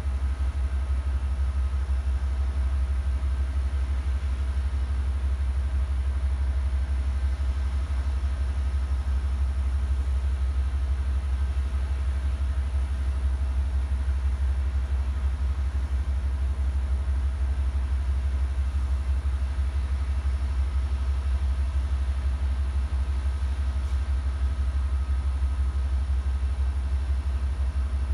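A standing Amtrak train idling: a steady low rumble with a few faint constant tones above it, unchanging throughout.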